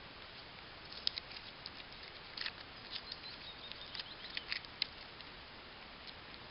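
Dry birch bark being handled and piled by hand, giving a faint scatter of sharp, papery crackles and clicks that are busiest in the middle.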